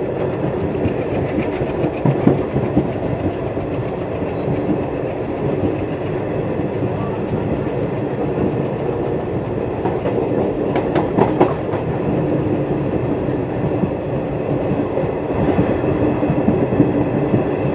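Passenger train running along the track, heard from on board: a steady rumble of the coach with a few sharper clacks of the wheels over the rails.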